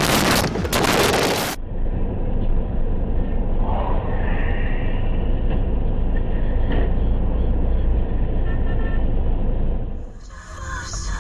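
Steady low rumble of a road vehicle driving, with faint tones above it and a short knock about seven seconds in. It is preceded by a second and a half of loud, full-range noise that cuts off abruptly.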